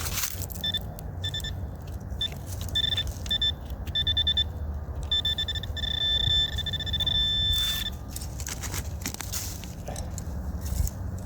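Minelab Equinox metal detector giving target tones over buried metal: a string of short beeps, then a longer held tone from about five to eight seconds in, with a few more beeps later, over a low rumble.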